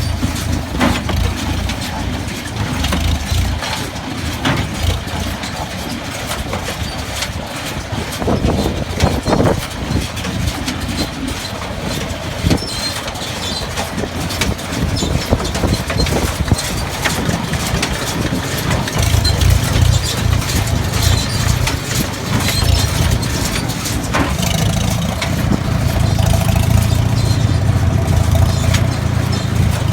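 Tractor engine running a Case 133 hay baler, a steady low drone with scattered mechanical knocks, growing louder about two-thirds of the way through.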